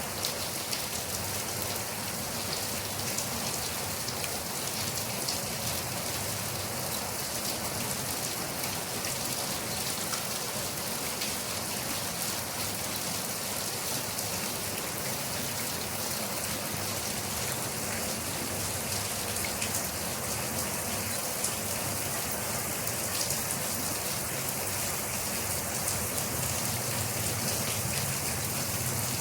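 Steady rain falling on a surface, a dense even hiss with many fine drop ticks, unchanging throughout.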